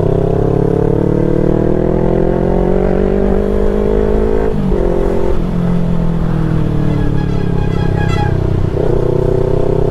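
Yamaha R3's parallel-twin engine pulling up through the revs under way. There is a short break like a gear change about four and a half seconds in, then the revs rise, fall away for a few seconds and build again near the end.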